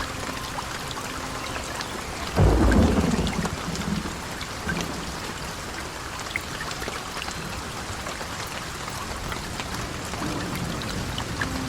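Steady heavy rain, with a sudden loud thunderclap about two seconds in that rumbles low and fades over a second or two.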